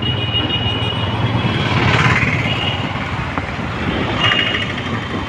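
Motorcycle running at a steady pace on the road: a continuous engine drone under road noise, with a few brief high tones at moments.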